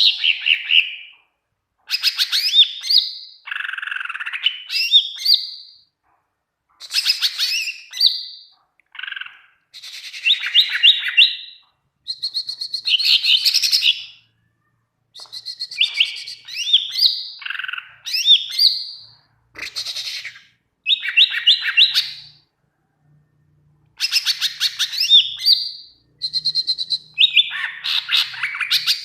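Green leafbird (cucak ijo) in full, vigorous song: loud phrases of rapid chirps and quick whistled sweeps, each lasting one to three seconds, with short silent gaps between them.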